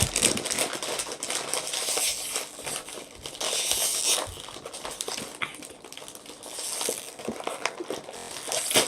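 Plastic chip bag crinkling and rustling as it is handled, with many sharp crackles and a loud crackle near the end.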